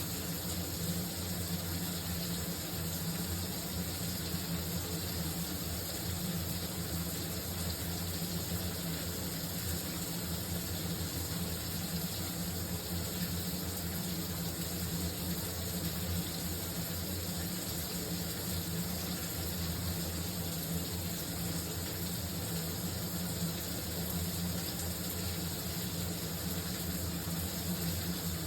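Shower water running in a steady, unbroken spray, with a constant low hum underneath.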